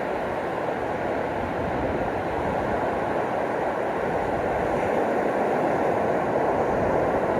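Ocean surf washing steadily onto a beach, a continuous rush that swells slowly louder toward the end.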